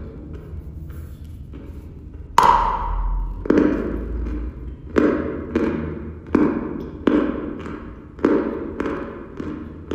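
Close-miked chewing of dry, hard chalk. After a quiet couple of seconds comes one sharp, loud crunch, followed by a steady run of crunches about one and a half times a second.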